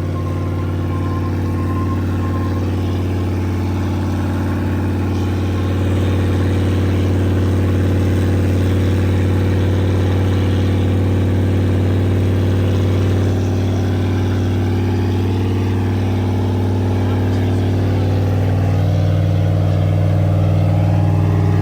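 A car engine idling steadily and loud, close by, its pitch shifting slightly near the end.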